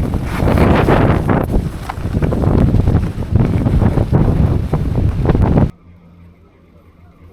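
Strong blizzard wind buffeting an action camera's microphone, loud and gusty. About six seconds in it cuts off suddenly, leaving only a faint low hum.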